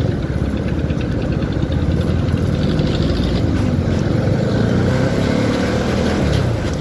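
Motorcycle engine running under way, likely the CFMoto 300SR, its pitch rising and falling with the throttle.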